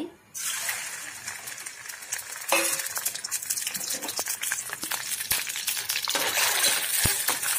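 Goat brain sizzling in hot oil in a metal pan. The sizzle starts suddenly as the brain goes in, grows louder a couple of seconds later and carries on, with a few sharp clicks of a spoon against the pan.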